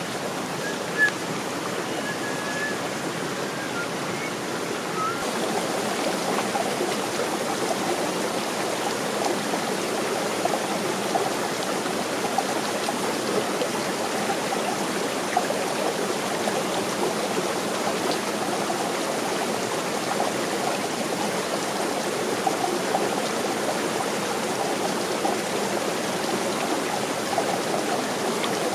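Stream water rushing steadily, its sound growing fuller from about five seconds in.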